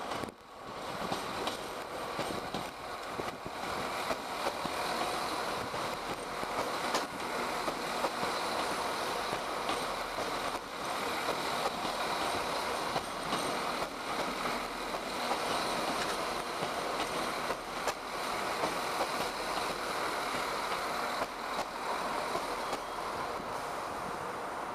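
Irish Rail 22000 class InterCity diesel multiple unit arriving and rolling past: a steady rumble of underfloor diesel engines and wheels on rail, with scattered sharp clicks as the wheels cross rail joints and points.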